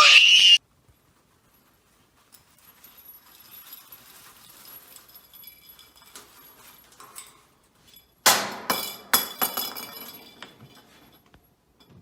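A brief loud burst at the very start, then faint clinking of small hard objects with a light ringing. About eight seconds in comes a louder run of sharp knocks and clatter that dies away.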